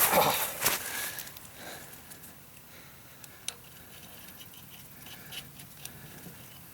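Rusty steel lug nuts being handled, with a burst of clattering and scraping in the first second, then faint scattered clicks and one sharp click a little past the middle.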